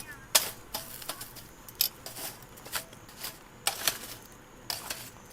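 Irregular sharp clicks and light knocks of small hard objects being handled, the kind made by camp cookware and utensils being picked up and set down, with the loudest knock about half a second in.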